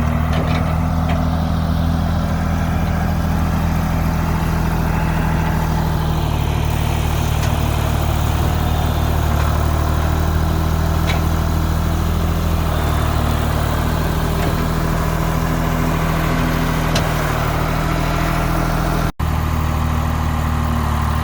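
Engine of a hydraulic work machine running steadily at an even speed close by. A very brief dropout comes near the end.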